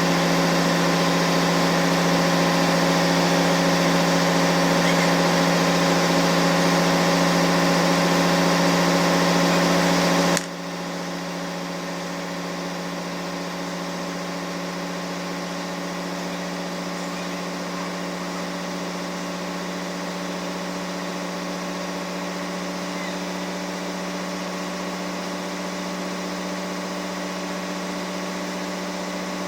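Engine-room machinery running steadily: a constant low hum with overtones and a high hiss. About ten seconds in, the sound drops abruptly in level and loses most of its hiss, then carries on as a quieter steady hum.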